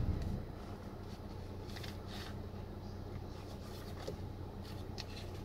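Steady low hum inside a Honda Odyssey's cabin while the car is running, with a few faint clicks and rustles.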